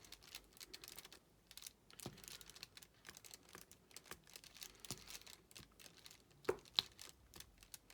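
Faint, scattered tapping and clicking of a diamond painting pen setting resin drills on the canvas, with soft crinkling of the canvas's plastic film. Two sharper clicks come near the end.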